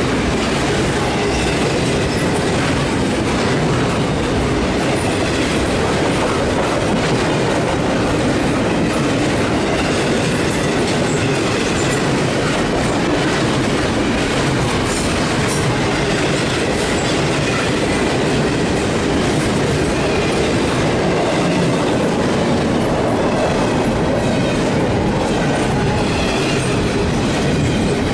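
A train rolling past close by, its cars' wheels clattering over the rail joints in a loud, steady stream.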